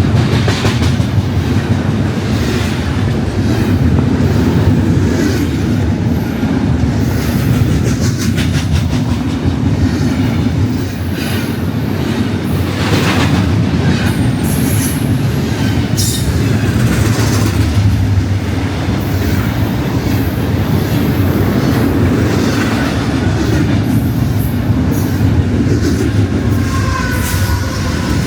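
BNSF intermodal freight cars rolling past with a steady rumble and wheels clicking over rail joints. A high wheel squeal rings out near the end.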